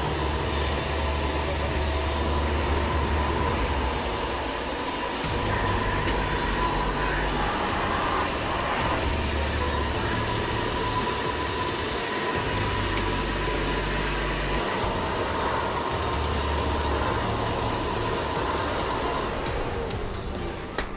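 Household vacuum cleaner running steadily: a loud, even rush of air with a thin, steady whine.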